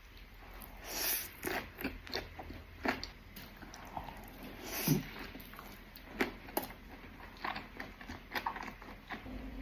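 Close-miked eating: someone biting and chewing food, a string of irregular wet clicks and crunches, the loudest about halfway through.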